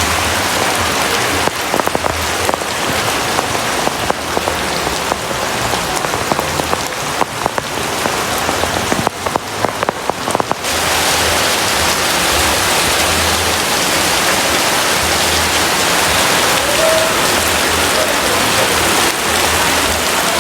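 Heavy rain falling. For the first half, many drops strike a hard surface with sharp, separate hits; about halfway it changes suddenly to a denser, steady hiss.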